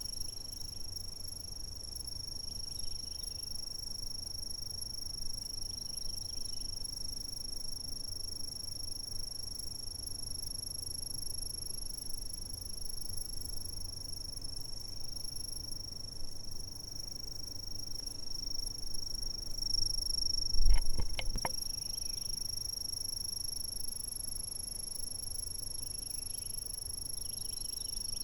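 Chirping insects keeping up a steady, continuous high-pitched trill over a faint low rumble. About twenty seconds in, a short cluster of knocks is the loudest sound.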